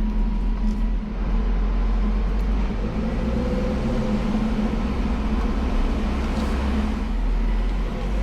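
A car driving along, with a steady engine and road rumble.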